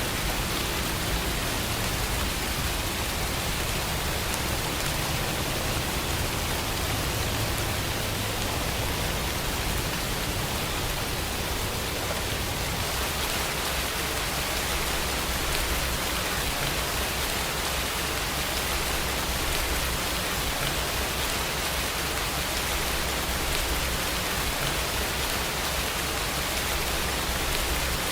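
Steady rain falling, an even hiss, with a low rumble underneath that swells and fades.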